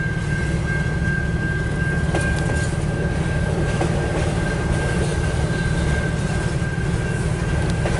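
Freight train cars rolling past slowly: a steady low rumble of wheels on rail, with a constant high-pitched squeal held throughout.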